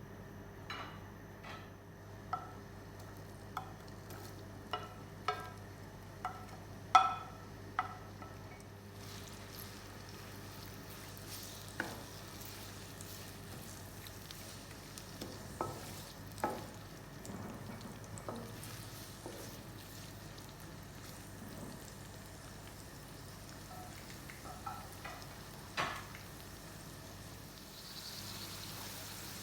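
A spoon knocking and scraping against a cooking pot while stirring, with sharp ringing taps, many in the first seconds and fewer later. From about nine seconds in, a faint sizzle of food frying runs underneath.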